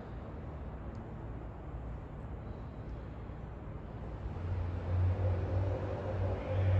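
Casablanca Spirit of Saturn ceiling fan running, a steady low motor hum that grows louder about four and a half seconds in.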